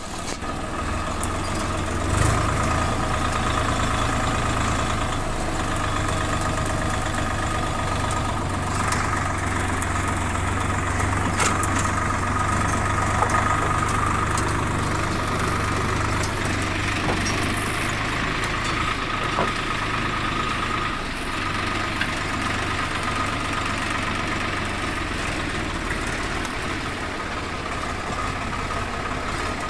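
Tractor's diesel engine running steadily with an even drone.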